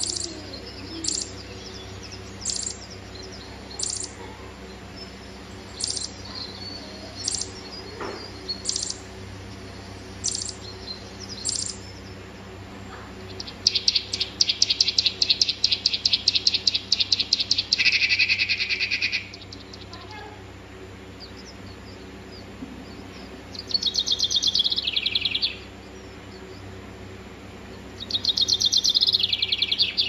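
Bird calls: short sharp chirps about every second and a half, then, a little before halfway, a long run of rapid chattering notes that drops lower near its end, followed by two shorter chattering bursts near the end.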